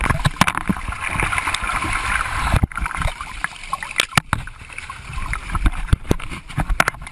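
Water sloshing and splashing inside a flooding airliner cabin, with repeated knocks and clatter of people and objects moving through it, recorded on a phone.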